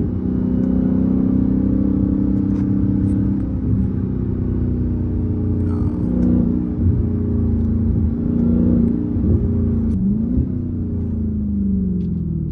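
Dodge Charger Hellcat's supercharged 6.2-litre V8 exhaust with the mid mufflers deleted, droning at a steady cruise. About ten seconds in the revs rise briefly and then fall away.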